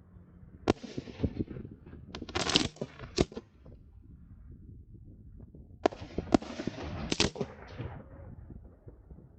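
Fireworks going off: a quick string of sharp bangs and reports starting about a second in, then a second volley about six seconds in, with a rushing hiss between the bangs in each volley.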